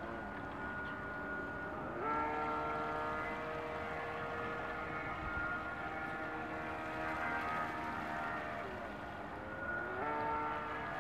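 A boat's motor running with a steady whine. It rises sharply in pitch about two seconds in as it speeds up, eases off around nine seconds and speeds up again near the end.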